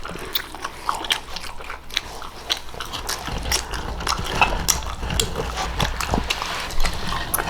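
Close-miked chewing of a burger: wet mouth clicks and smacks at an irregular pace.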